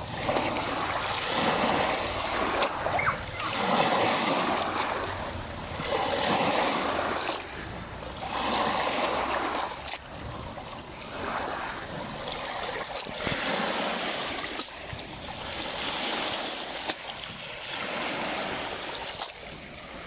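Small lake waves lapping at the shore, a soft wash of water about every two to three seconds.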